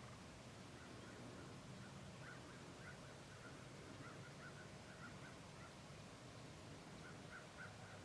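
Faint, distant birds calling in a quick series of short, repeated notes, over a low steady hum of background noise.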